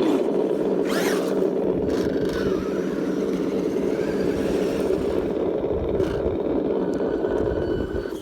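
V8 engine-sound module on an electric RC monster truck, giving a steady rumbling engine note. It drops away near the end.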